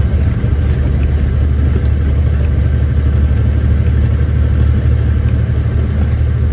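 Off-highway logging truck's diesel engine running steadily under way, heard from inside the cab as a loud, even low drone.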